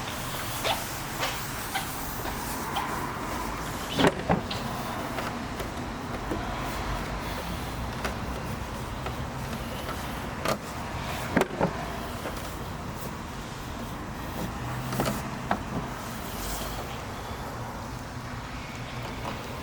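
Range Rover Supercharged's supercharged V8 engine idling steadily, with a few sharp clicks and knocks from the car at intervals.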